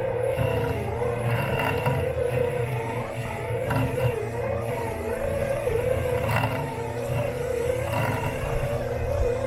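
Robot lawn mower's electric motors running, picked up through a camera taped to the mower's body: a steady whine that wavers slightly in pitch over a low rumble, with a few short ticks.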